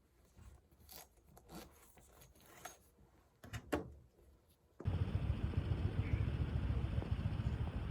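A few faint clicks and taps, then about five seconds in a loud, steady, low rumble cuts in abruptly and keeps going.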